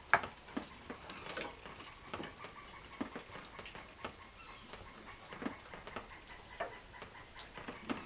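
Irregular light ticks and taps, a few a second and unevenly spaced, with one sharper click just after the start.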